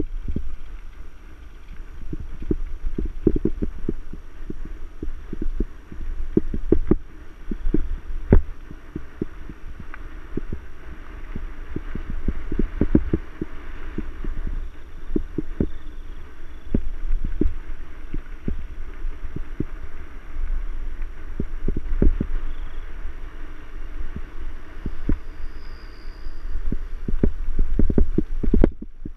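A mountain bike ridden over rough trail, heard through a camera mounted on the bike or rider: a dense, irregular stream of low knocks and rattles as the bike jolts over bumps, over a constant low rumble.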